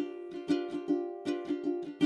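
Background music: a plucked ukulele-like string instrument playing a quick melody of short notes.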